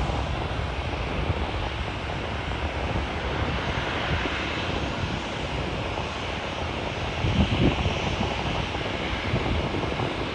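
Airliner jet engine noise, a steady rushing sound, with wind buffeting the microphone.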